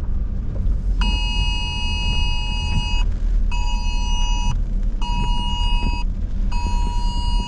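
Wireless Emergency Alert attention tone sounding inside a moving car: a loud two-pitch tone starting about a second in, in a repeating long, short, short pattern, announcing a flash flood warning. The car's steady low rumble runs underneath.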